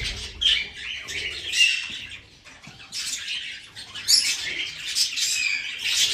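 A flock of budgerigars chirping and chattering, with many overlapping short calls and warbles.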